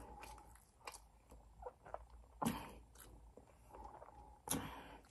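A person chewing food close to the microphone: quiet mouth clicks, with two louder sharp clicks about two and a half and four and a half seconds in.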